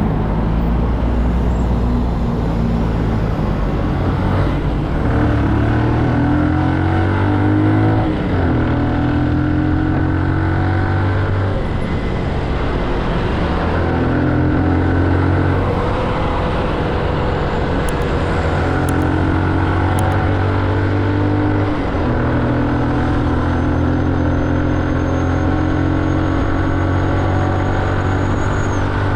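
Motorcycle engine pulling through the gears, its pitch climbing slowly and dropping at each of several gear changes, with wind and road rush over it.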